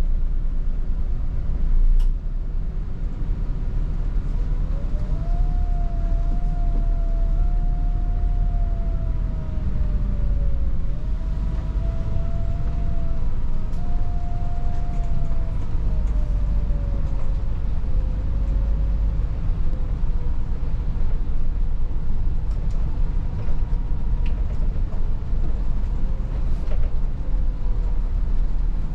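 Volvo 8900 bus under way, heard from on board: a steady low engine and road rumble, with a whine that rises and falls in pitch from about four seconds in until about twenty seconds. A single sharp click about two seconds in.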